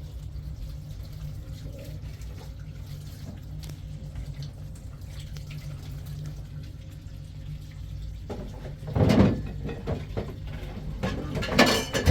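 Water running and splashing, as from a tap into a sink, in loud bursts from about eight seconds in, over a steady low hum.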